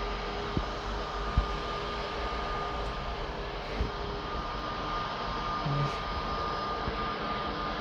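Jet aircraft engines running steadily: a broad rush with a thin high whine over it. A couple of small knocks sound in the first two seconds.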